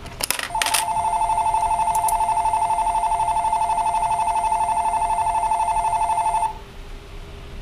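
Small speaker of a 0-series Shinkansen toy coin bank playing back a station departure bell, a steady fast-trilling electric bell ring lasting about six seconds before it cuts off. A few clicks come just before the ringing starts.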